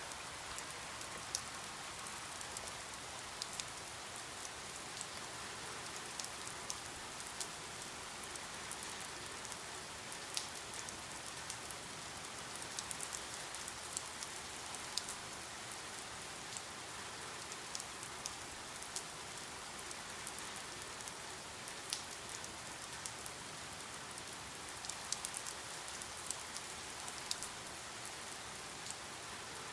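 Steady rain falling, an even hiss with scattered distinct drops ticking sharply on a surface throughout.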